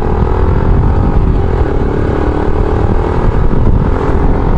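Yamaha YBR 125 G motorcycle's single-cylinder four-stroke engine running steadily while riding, with a heavy low rumble of wind and road noise on the microphone; the engine note dips slightly about a second in.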